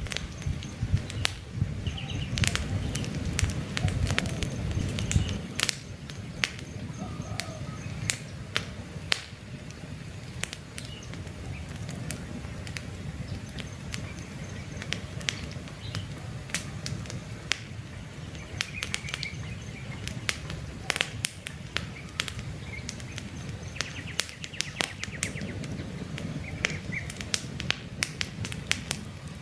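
Wood campfire crackling, with sharp pops scattered throughout and a low rumble of the flames at the start and again near the end. Occasional small birds chirp in the background.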